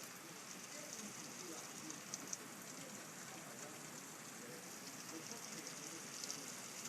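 Steady rain falling, a dense fine patter of drops, with two sharper drips a little after two seconds in.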